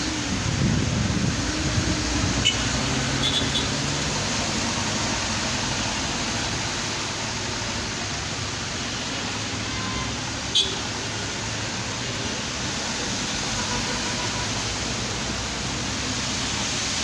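Steady hiss of heavy rain, with a vehicle engine rising and falling in pitch during the first few seconds and a single sharp click about ten seconds in.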